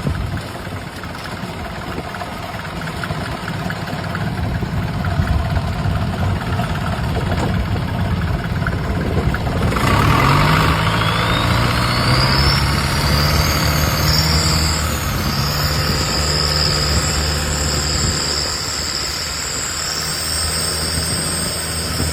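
Boat engine idling roughly, then about halfway through the throttle opens: the engine note rises and settles at a higher steady pitch, with a thin whine climbing high above it.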